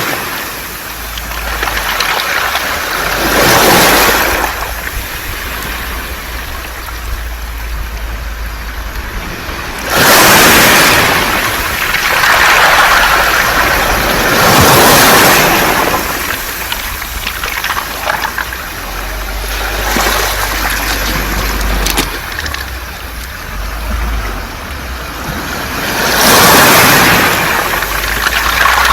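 Sea waves washing over a beach of round pebbles (mongdol), the stones rattling and hissing as each wave surges in and draws back, with a surge every few seconds. A low rumble runs underneath.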